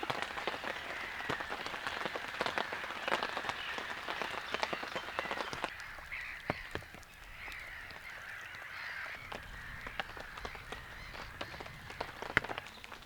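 Rain falling as an irregular patter of drops and drips, heavier for about the first six seconds and then lighter.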